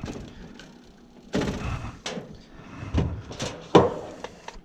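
Handling noise: a short scraping rush, then several sharp knocks and clicks like a door or panel cover being moved and set in place, the loudest knock near the end.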